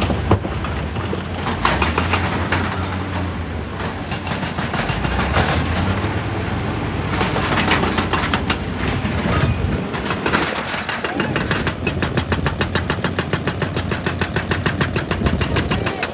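Heavy excavator at work on rock: the engine runs steadily under irregular knocks and crunches of rock and steel. About ten seconds in this turns into a fast, even clatter of strokes.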